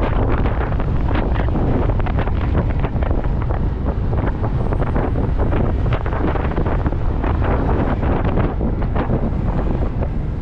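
Wind buffeting the microphone of a moving motorcycle, a steady, loud rush with rapid gusty flutter, over the low rumble of the bike and the road.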